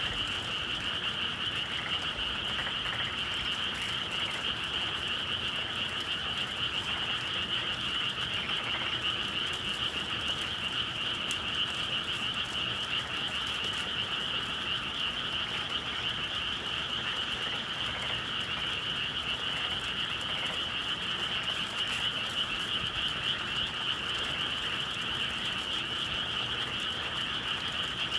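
Dense, steady chorus of many frogs calling at once, a continuous high trilling mass with a lower band beneath it.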